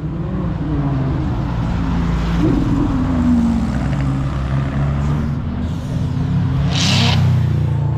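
Classic cars driving slowly past one after another, several engines running at once, with a short hissing burst about seven seconds in.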